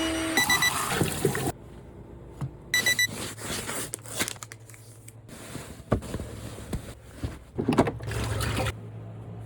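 Household cleaning sounds cut together: water running and scrubbing, with short electronic appliance beeps twice, about half a second and about three seconds in, and a few sharp knocks later on.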